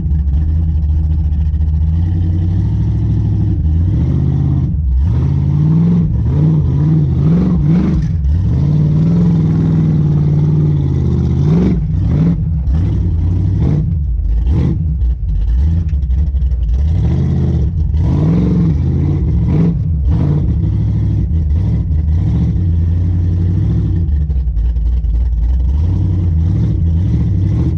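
Vehicle engine running under load, its revs rising and falling again and again through the middle stretch and holding steady at the start and near the end.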